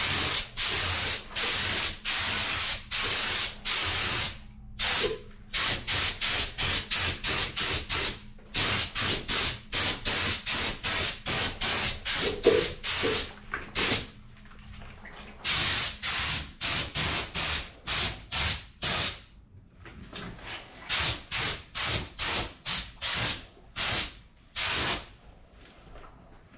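Paint spraying in short hissing bursts, often two or three a second, with brief gaps between them and a couple of longer pauses partway through.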